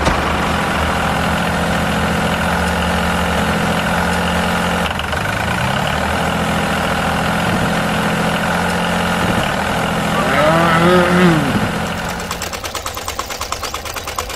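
Diesel tractor engine running steadily, with a brief rising rev about five seconds in. A short rising-and-falling voice-like call comes about ten seconds in. Near the end the tractor sound gives way to the fast, even chugging of a small power tiller engine.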